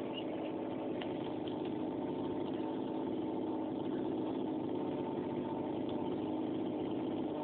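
Motorbike engine idling steadily, with an even, unchanging note.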